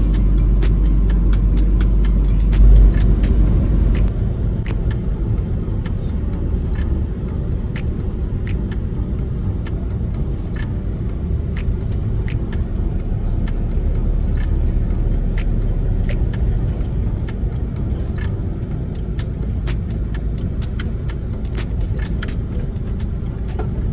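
Camper van driving, heard from inside: a steady low rumble of road and engine noise, with frequent small ticks throughout.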